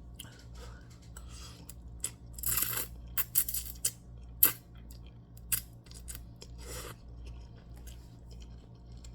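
Eating sounds close to the microphone: irregular chewing with short clicks and rasps, the loudest about two and a half to four and a half seconds in, over a steady low hum.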